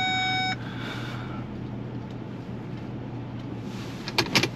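Truck engine idling, heard from inside the cab. A steady electronic tone cuts off about half a second in, and a few sharp clicks or knocks come near the end.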